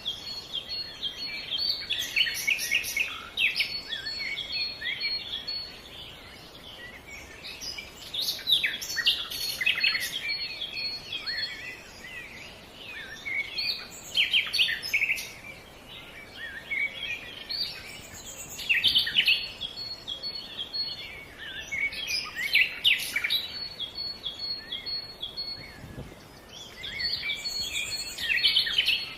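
Songbirds chirping and singing in repeated bursts every few seconds, with a thin, high, steady trill between the bursts.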